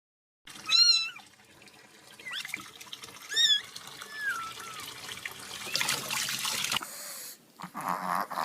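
A cat meowing about four times in short, high-pitched calls, followed about six seconds in by a second of rushing, water-like noise.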